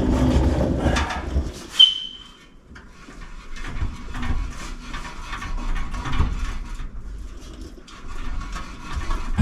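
Steel exhaust pipe being forced into a tight-fitting joint: irregular scraping and knocking of metal on metal, with one sharp clank that rings briefly about two seconds in.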